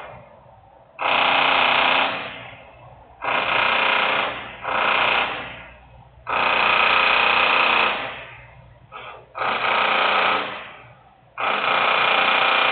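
Loud industrial machinery noise in repeated bursts, six of them, each about one to one and a half seconds long, starting abruptly and tailing off, with short quieter gaps between.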